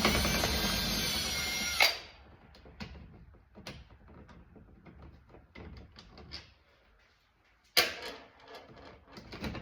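Power drill-driver running for about two seconds as it backs out a door panel screw, stopping suddenly. Small clicks and handling noises follow, with a sharp knock about eight seconds in.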